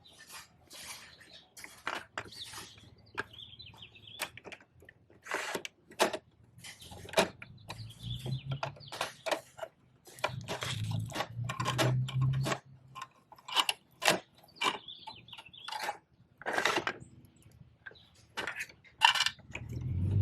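Plastic clicks and knocks from a Bruder toy side-loader garbage truck being handled and worked by hand, with a low rumble in the middle stretch.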